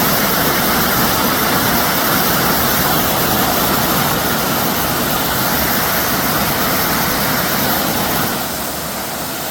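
Waterfall: the steady, loud rush of falling water, dropping a little in level near the end.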